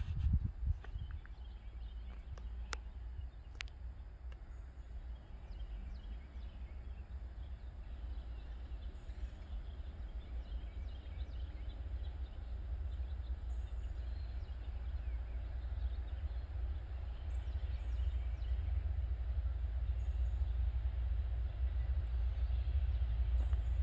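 Distant Norfolk Southern freight train approaching: a low rumble that grows steadily louder, with a few faint bird chirps.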